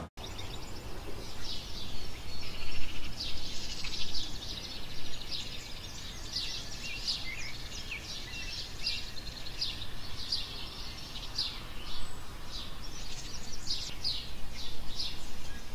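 Birds chirping: a dense run of short, high calls over steady outdoor background noise.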